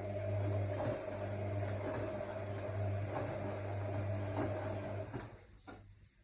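AEG Lavamat L62850L washing machine's motor running with a steady hum and whine, which stops about five seconds in, followed by a single sharp click, as in a wash cycle's run-and-pause rhythm.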